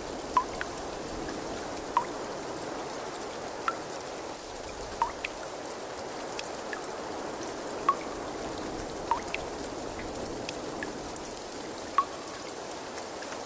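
Water trickling steadily, with single drops plinking clearly into water every one to two seconds.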